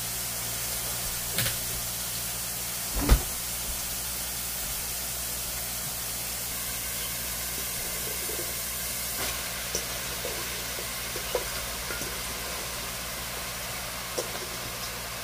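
Sliced mushrooms frying in oil in a stainless steel pan: a steady sizzling hiss, with a sharp knock about three seconds in and a few lighter clicks later.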